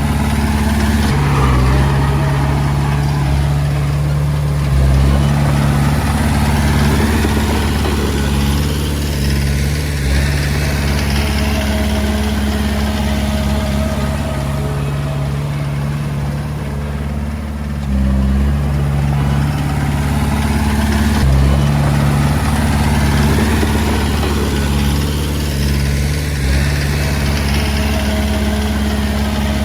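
Komatsu D20A bulldozer's diesel engine running steadily as the dozer works, its note shifting every few seconds.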